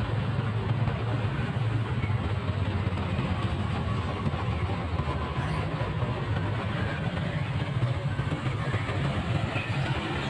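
Motorcycle engine running steadily at an even pace, with no revving.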